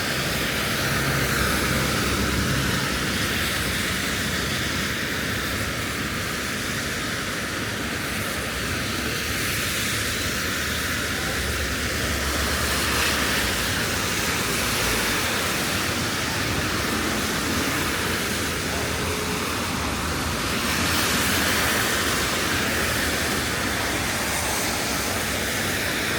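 Steady hiss of falling rain, an even wash of noise with no let-up.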